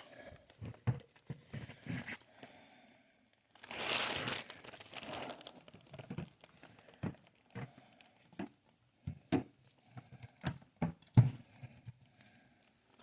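Handling noises: a string of light knocks and clicks as things are moved and set down, with a stretch of plastic crinkling about four seconds in.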